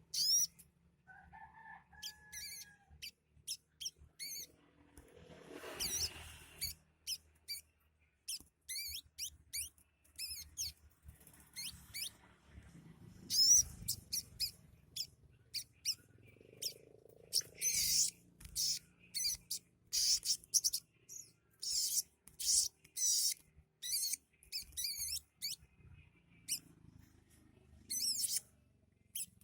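A caged little spiderhunter (sogok ontong) singing: rapid series of short, sharp, high-pitched chirps in bursts, thickening and growing louder in the second half. Its song carries fill-in phrases copied from other birds such as the house sparrow and tailorbirds.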